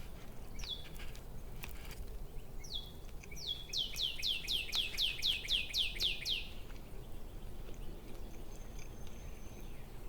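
A songbird singing: a couple of single down-slurred notes, then a rapid run of about a dozen falling notes, roughly four a second, and a brief thin whistle near the end.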